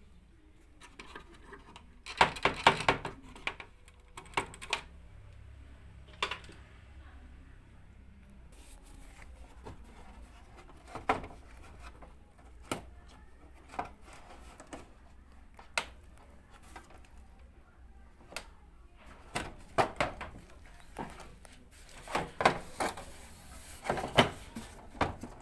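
Irregular knocks and clicks of hands working on a washing machine, with a short burst of rattling about two seconds in and a busier run of knocks near the end, over a faint steady low hum.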